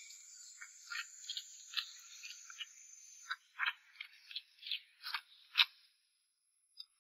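Soft, irregular wet smacks and clicks of a mouth gnawing and chewing meat and tendon off a braised beef bone, the loudest few between about three and six seconds in, with a short pause near the end.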